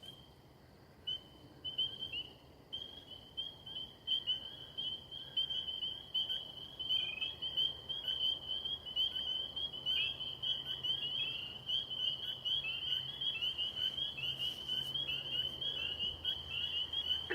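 Spring peeper frog chorus: many short, high peeps overlapping. It is sparse for the first couple of seconds, then becomes a continuous dense chorus.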